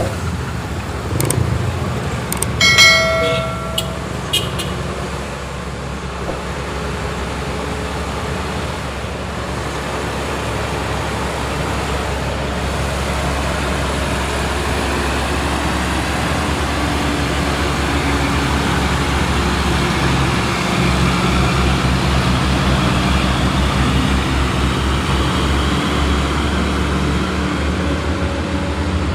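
Truck engine running steadily, louder and heavier over the last third. A vehicle horn sounds briefly about three seconds in.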